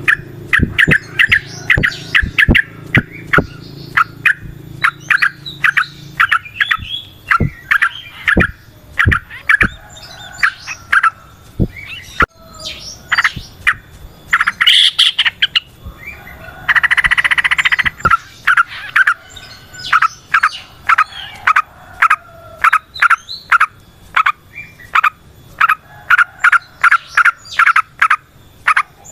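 Yellow-vented bulbul (trucukan) singing a long, rapid run of short, sharp chirping notes in quick succession, with a brief buzzy trill about two-thirds of the way through.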